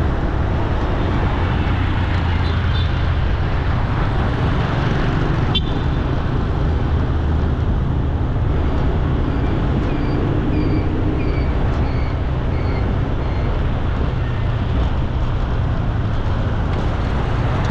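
Steady city traffic noise: the low rumble of engines and tyres from passing vehicles. A sharp click comes about five and a half seconds in, and a run of short, high chirps comes around the middle.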